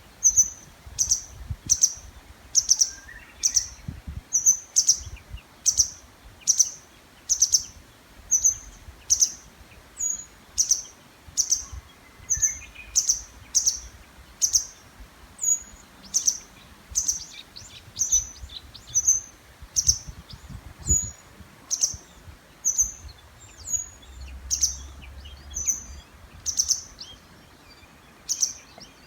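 A songbird repeating one short, high call over and over, about twice a second, in its breeding-season calling.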